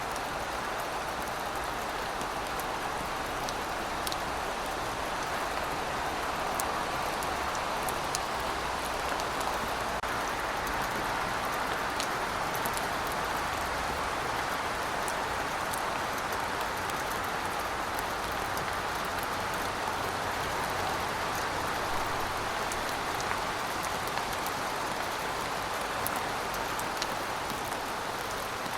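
Steady rainfall, an even hiss of rain on surfaces with scattered small drop ticks.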